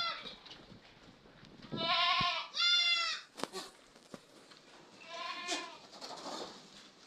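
Goat bleating four times: one call at the start, two close together about two seconds in, and one more about five and a half seconds in.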